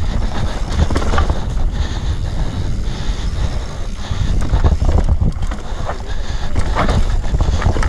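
Heavy wind buffeting on the microphone of a camera moving fast along a rough trail, with scattered knocks and rattles from the ground.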